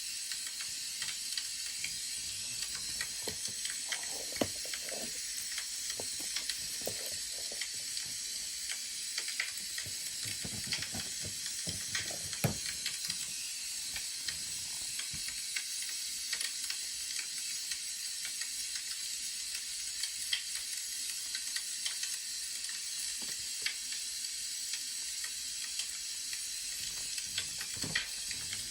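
Wood fire crackling: a steady hiss with scattered sharp pops. Soft rustling joins in between about three and thirteen seconds in.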